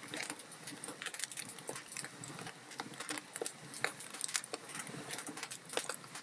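Wood fire crackling: irregular sharp snaps and pops from burning logs over a soft hiss.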